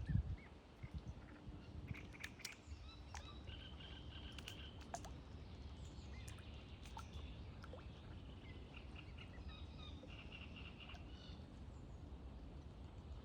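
Faint, high bird peeps and chirps in short runs over a steady low outdoor rumble, with a thump at the very start.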